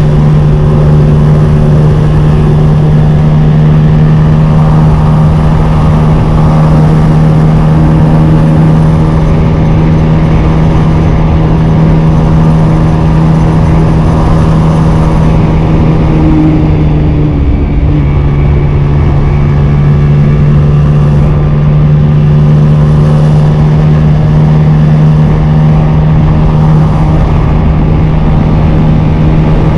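Honda CG 125's single-cylinder four-stroke engine running at a steady speed under way, with a brief dip in the engine note a little over halfway through before it settles back to the same steady pitch.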